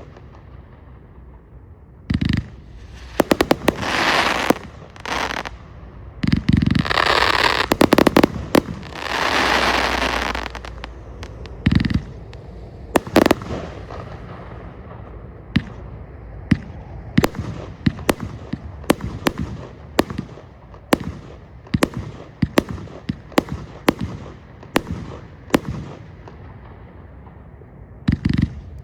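A 138-shot firework compound cake firing 25 and 30 mm shots, each a sharp bang. In the first ten seconds several longer noisy bursts last a second or two each. From about a third of the way in, the shots come in a steady run of about one to two a second.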